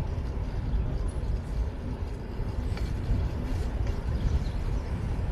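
Wind buffeting the microphone of a camera on a moving bicycle, a low uneven rumble, with city street traffic underneath.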